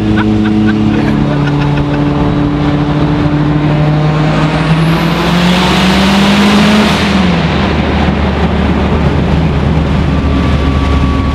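Heavily modified, roughly 800 hp turbocharged Mitsubishi Lancer Evolution heard from inside the cabin under acceleration: the engine note climbs steadily for several seconds under a growing rush of noise, then drops sharply about seven seconds in and settles to a steady low drone.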